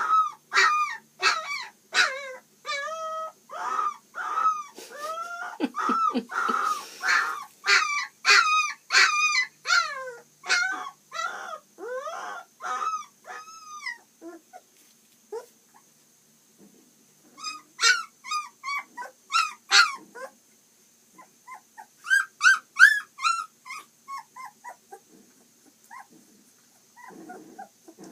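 Two-week-old puppies whimpering and squealing in many short, high cries that bend in pitch. They come thick and fast for the first half, thin out for a few seconds, then come in a loud run and trail off into softer whines.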